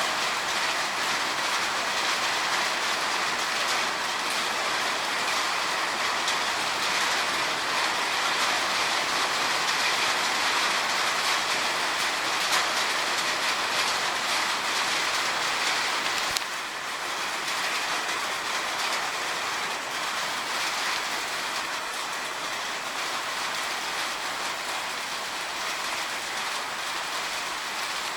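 Heavy rain falling steadily, a dense even hiss of drops on surfaces that drops to a slightly lower level about halfway through.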